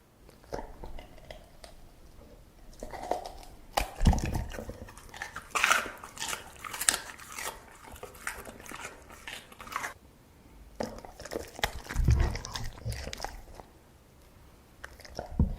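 A dog chewing and crunching food in close, rapid bites, with a short pause about ten seconds in before it carries on.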